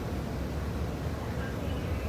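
Steady low rumble of a Hyundai Rotem R-Train electric multiple unit in motion, heard from inside the passenger car.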